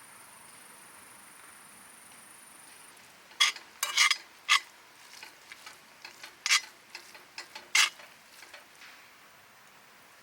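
A metal utensil clinking and scraping against cookware: a quick run of sharp clinks from about three to five seconds in, then more spaced clinks until about eight seconds in.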